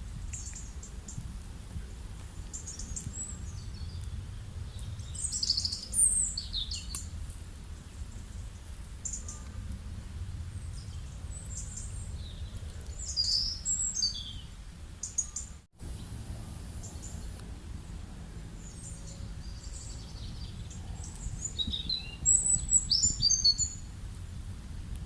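Birds chirping and calling in scattered bursts, busiest in a few clusters, over a steady low rumble. The sound drops out for an instant about two thirds of the way through.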